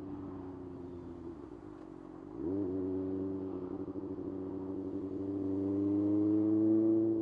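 Kawasaki ZX-6R's inline-four engine. Off the throttle, its pitch sinks for about two seconds; then the throttle opens sharply and the engine pulls with a steadily rising pitch, loudest near the end.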